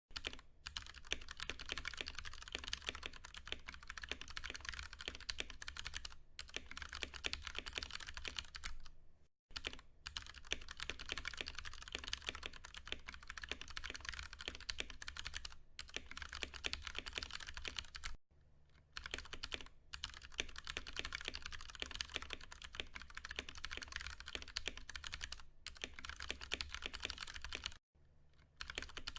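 Continuous fast typing on a Ducky One 2 Mini mechanical keyboard with Cherry MX Brown tactile switches, the keys clacking densely, with a brief pause three times. A faint low hum runs underneath.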